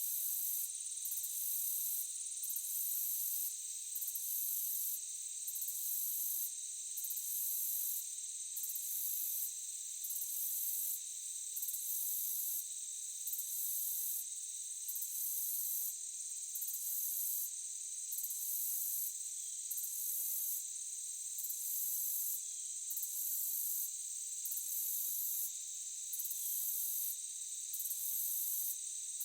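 Chorus of forest insects: a steady high-pitched buzz, overlaid by a very high trill that pulses evenly and breaks off briefly about every second and a half.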